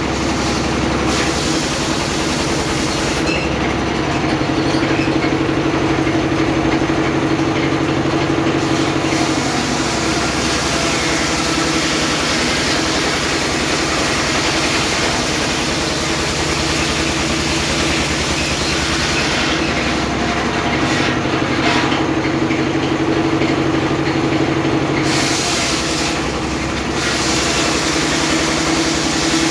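Homemade engine-driven circular sawmill running steadily, a continuous drone with a steady whine; the sound changes twice, from about three to nine seconds in and again about twenty to twenty-five seconds in.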